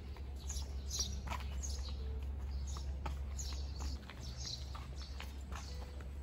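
Small birds chirping over and over in short chirps that drop in pitch, over a low steady rumble, with a few faint clicks.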